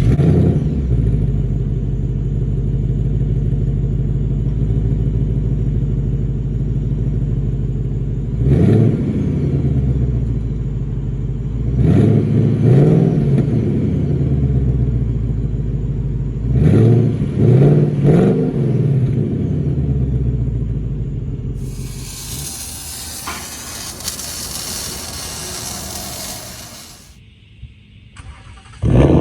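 Ford Mustang GT 5.0 V8 exhaust: the engine catches and settles into a rumbling idle, then revs in short blips, once, then twice, then about three times in quick succession. Later a loud steady hiss takes over as the engine sound falls away, and the engine is heard catching again right at the end.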